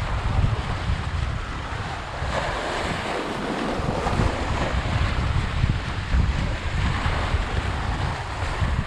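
Strong wind buffeting the microphone: a steady rushing noise with heavy low rumbles that rise and fall with the gusts.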